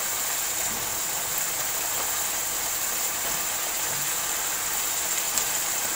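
Beef keema and potato slices sizzling in a wok over a gas flame: a steady hiss.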